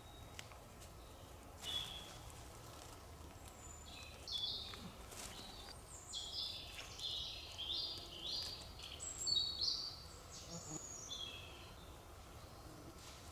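Small songbird singing: quick runs of short, high chirping notes that step downward, busiest in the middle, with a few faint clicks underneath.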